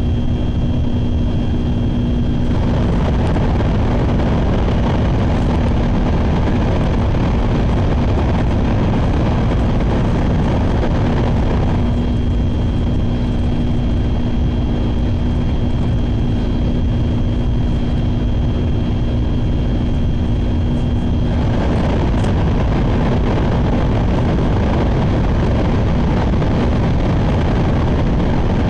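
Shinkansen train running at speed, heard from inside the passenger cabin as a steady rumble with a faint hum. The rumble grows fuller about two seconds in, eases back with the hum showing again about twelve seconds in, and swells once more about twenty-one seconds in.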